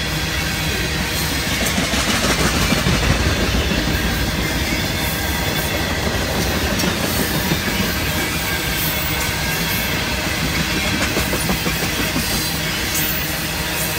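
Tank cars of a Union Pacific oil train rolling past, a steady rumble and clatter of steel wheels on the rails with clickety-clack over the rail joints.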